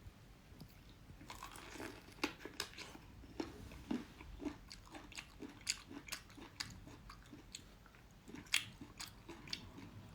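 A person biting into and chewing a raw lemon, with repeated irregular wet crunches and sharp clicks.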